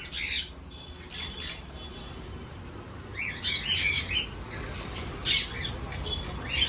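Small parrots squawking: short, harsh calls every second or so, with a quick run of squawks about three to four seconds in.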